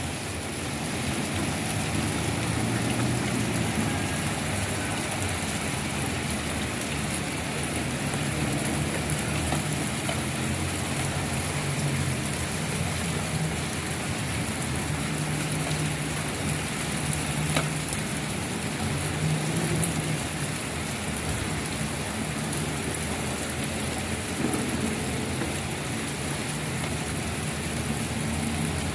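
Steady soft rain, an even hiss of falling drops, with a low wavering rumble underneath.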